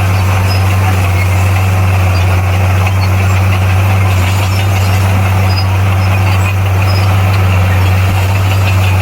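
Bulldozer's heavy diesel engine running at a steady speed, a deep even drone with no change in pitch or load.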